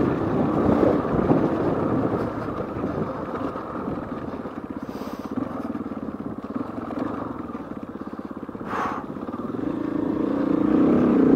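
KTM 450 EXC's single-cylinder four-stroke engine running as the enduro bike rides over grassy ground. The engine grows quieter through the middle as the throttle eases, then picks up and gets louder toward the end, with a brief scraping hiss about nine seconds in.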